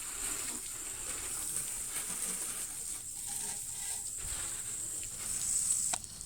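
Water spraying from a garden hose onto a pickup truck's paint to rinse off soap: a steady hiss that cuts off suddenly near the end.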